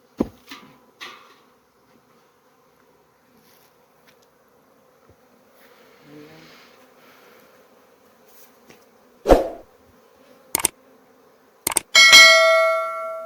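Bees buzzing in a steady low hum, with a few sharp knocks. Near the end a metal object is struck and rings with a bright clang that dies away over a second or so.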